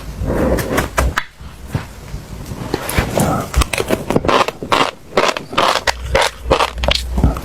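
Close-miked chewing of crunchy seeds: a quick, irregular run of crisp crunches and crackles.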